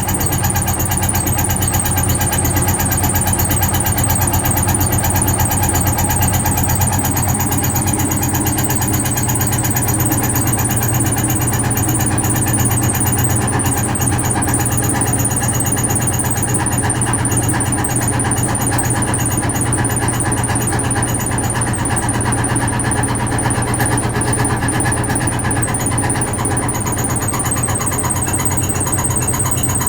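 Vintage Frigidaire Super Deluxe Automatic 50 front-loading washing machine running, its motor giving a loud, steady hum with a high whine above it.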